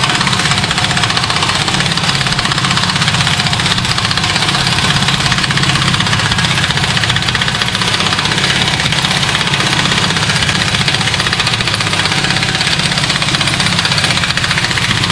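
Impact wrench hammering continuously and at length on a front hub fastener that is held with Loctite. The fast rattle stays loud and steady, and the mechanic takes the wrench to be worn out.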